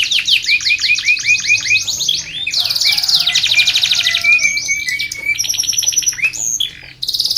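Domestic canary singing a long unbroken song: fast trills of repeated down-sweeping notes that switch to a new phrase every second or two, with a brief break near the end.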